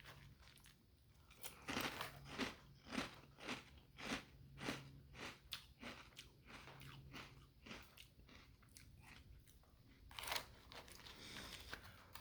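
A person chewing a mouthful of Cocoa Pebbles Crunch'd cereal in milk, really crunchy: a run of crunches about two a second that softens after about six seconds, with one more crunch near the end.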